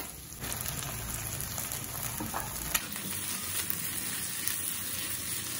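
Squid, tempeh and chili paste sizzling as they fry in a ceramic-coated wok, stirred with a spatula. There is one light click about three seconds in.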